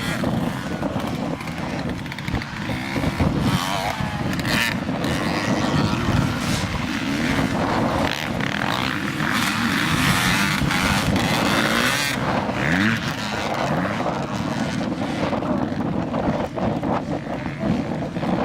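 Motocross bikes racing on the track, their engines revving up and down as they pass.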